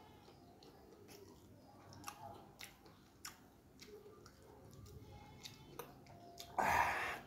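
A person chewing food, with soft, scattered wet clicks and smacks from the mouth. Near the end comes one short, loud, noisy burst, the loudest thing here.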